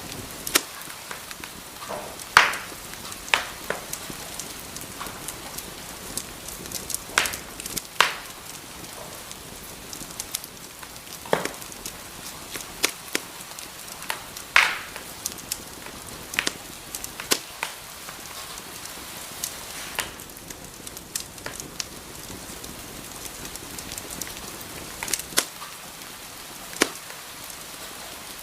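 Wood fire burning in a fireplace: a steady soft hiss with irregular crackles and sharp pops, a few of them louder.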